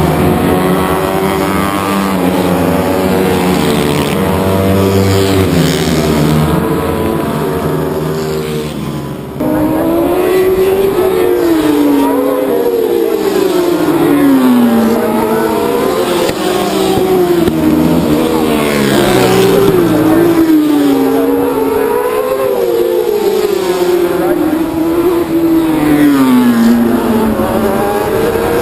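Race motorcycles at high revs, engine notes overlapping. About a third of the way in the sound breaks off abruptly; after that the engine pitch climbs and drops again and again as the bikes accelerate, shift and slow for corners.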